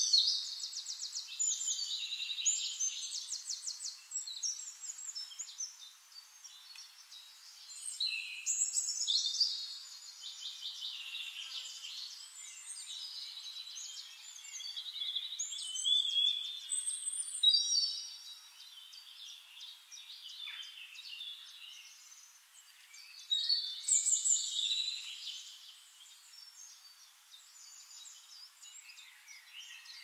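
Songbirds singing: loud, high phrases of rapid trills every several seconds, with fainter chirps between.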